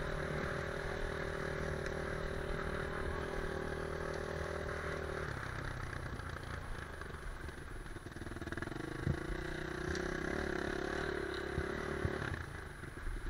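Motorcycle engine running steadily. Its tone drops away about five seconds in and returns, lower, about three seconds later, with a couple of knocks.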